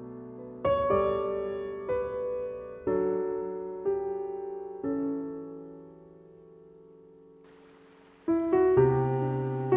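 Background piano music: slow, gentle notes and chords struck about once a second, each ringing and fading, with a pause in new notes before a fresh chord near the end.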